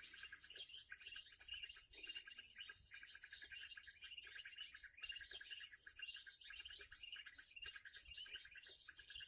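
Faint, continuous twittering of small birds: many quick high chirps overlapping without a break.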